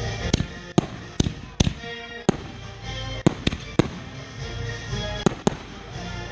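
Fireworks bursting in quick, irregular succession, about a dozen sharp bangs, some close together. Music plays underneath throughout.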